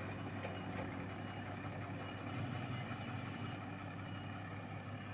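Diesel engines of road-paving machinery running steadily with a low hum, with a brief hiss about two seconds in that lasts just over a second.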